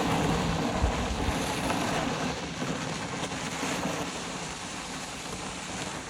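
Snow pusher blade on a hand truck shoving snow across a driveway: a steady scraping, rushing hiss that fades gradually over the last few seconds.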